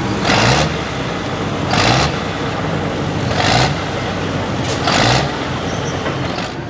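Hot farm pulling tractor's diesel engine revved in repeated bursts, four times about every one and a half seconds, each blip sweeping up in pitch over a steady running note.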